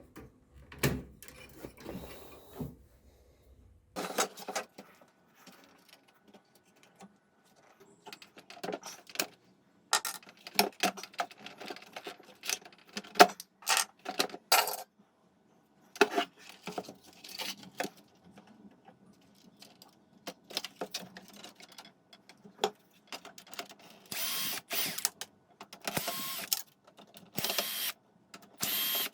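Hands working on a portable stereo's plastic casing and parts: scattered clicks, taps and knocks, then about four short bursts of rushing noise, each roughly a second long, near the end.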